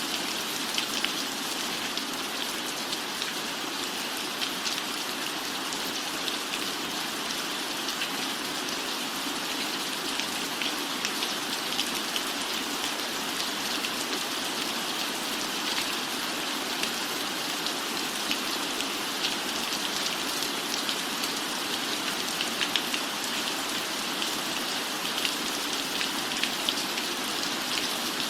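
Steady, even rainfall, with a dense patter of individual drops.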